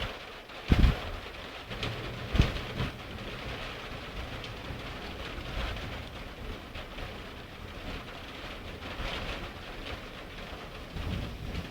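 Heavy rain falling steadily in a strong thunderstorm, with two short sharp cracks about a second in and again about two and a half seconds in.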